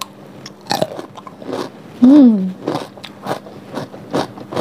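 Crisp bites and chewing of a whole raw cucumber, close on a clip-on microphone, with a crunch every half second or so. A couple of seconds in comes a short hummed "mmm", rising then falling in pitch, the loudest sound.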